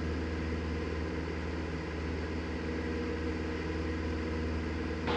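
Cessna 172's piston engine and propeller droning steadily under power, heard inside the cabin.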